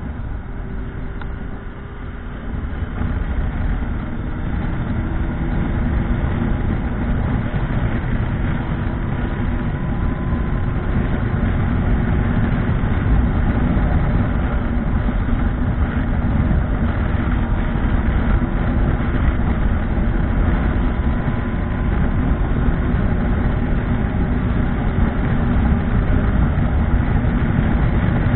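Motorcycle engine running under way with a dense low rumble, louder over the first few seconds and then steady, its note rising slowly.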